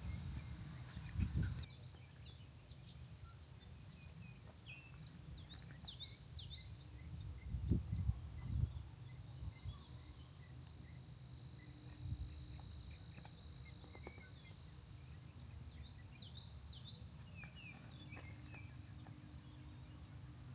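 Outdoor nature ambience: a steady high insect trill runs throughout, with two flurries of quick bird chirps, about five seconds in and again around sixteen seconds. Underneath is a low rumble, with a few louder bumps around eight seconds.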